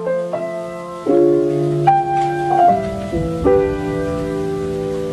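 Background music: a soft piano playing held chords with a few short melody notes, the chord changing about every second, with no singing.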